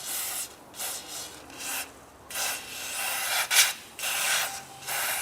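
Hand scrubbing of rust inside a steering knuckle's wheel-bearing bore, an abrasive rubbing in about eight uneven strokes, a bit over one a second. The rust is being cleared from the bore before a new wheel bearing goes in.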